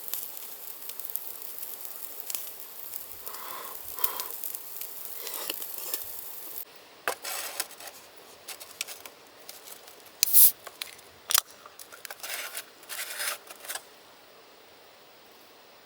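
Meat sizzling over charcoal embers, a steady hiss that cuts off suddenly about six and a half seconds in. It is followed by a series of sharp clicks and scrapes, two louder ones near the middle, like tongs or chopsticks working at the grill.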